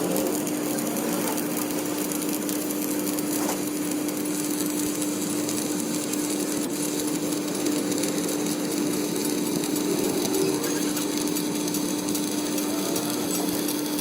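Workshop machinery running steadily during the crankshaft journal repair: a constant motor hum under a dense, even rasping noise, with no break.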